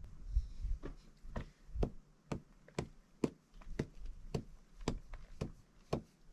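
A steady series of short, sharp knocks or taps, about two a second, each with a brief ringing tail.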